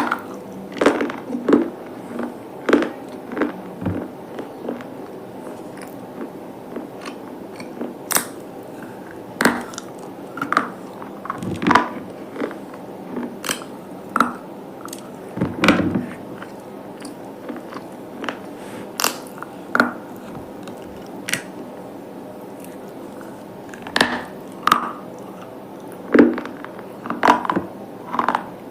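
Brittle slate pieces bitten and chewed, giving sharp, irregular crunches every second or two with quieter crumbling between them.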